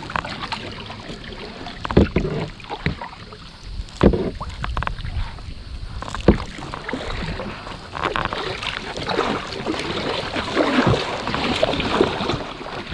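Kayak paddling: paddle blades dipping and splashing in the river, with three sharp knocks about two seconds apart against the plastic kayak hull, and busier splashing in the second half.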